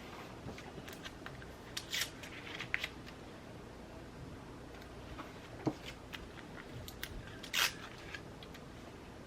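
Scissors cutting paper: a handful of short, crisp snips spread over several seconds, with light paper handling between them.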